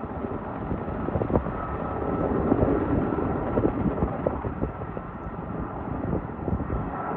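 Outdoor field noise: a steady rumble with many short, sharp crackles and pops scattered through it.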